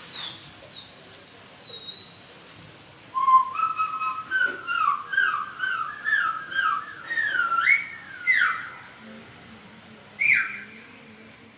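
Whistle-like warbling tones from a 'weird sounds for dogs' clip, played through a home theatre speaker. A quiet run of short wavy notes comes first. About three seconds in, a louder whistle starts that slides up and down for several seconds, and a single falling sweep follows near the end.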